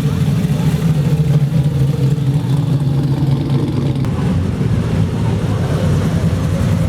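A car engine running steadily at low speed, its low pitch holding level.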